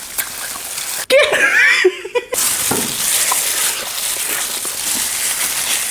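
Breathy laughter, with a short high-pitched laugh about a second in.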